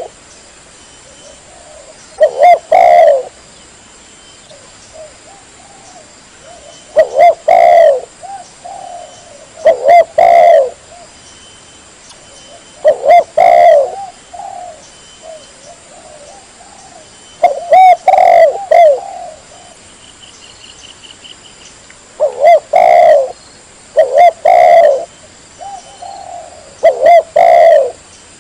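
Spotted dove (tekukur) cooing: a loud, repeated multi-note coo phrase every two to five seconds, with fainter coos between. It is a lure call recording used to attract wild spotted doves.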